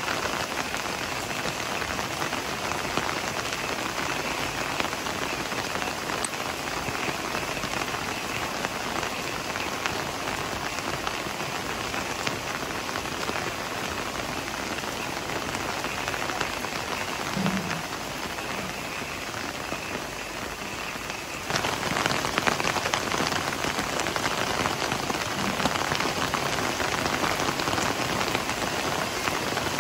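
Heavy rain falling steadily on leafy garden foliage. It becomes suddenly louder about three-quarters of the way through.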